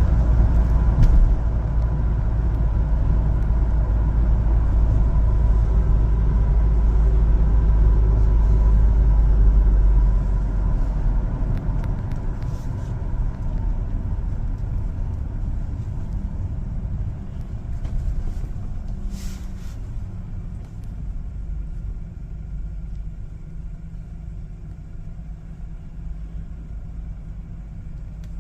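A one-ton LPG cargo truck driving, with engine and road noise under a heavy low rumble. The rumble drops off about ten seconds in, and the noise grows gradually quieter after that.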